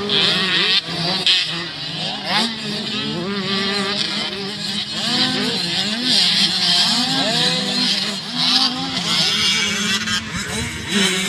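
Several motocross dirt bikes running on the track, their engine notes rising and falling over one another as the riders open and close the throttle.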